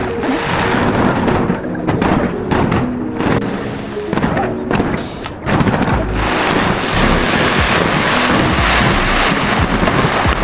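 New Year fireworks going off in a dense run of bangs and crackles over steady crowd noise, with music playing underneath.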